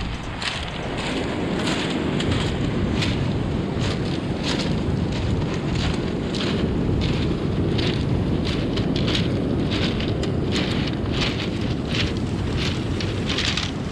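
Wind buffeting the microphone in a steady low rumble, with many short crackling clicks throughout.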